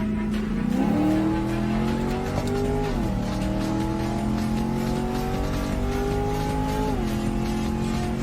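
Car engine at full throttle, accelerating hard: its pitch climbs steadily, then drops suddenly at two gear shifts, about three and seven seconds in.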